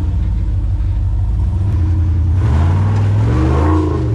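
Off-road vehicle engine running with a steady low rumble, then revving up about halfway through, its pitch climbing, and starting to ease off near the end.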